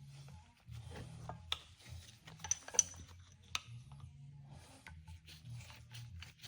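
Scattered clicks, taps and rubbing of small metal parts being handled and fitted together by hand, with one sharper metallic click near the middle; the old brake caliper is being put back together.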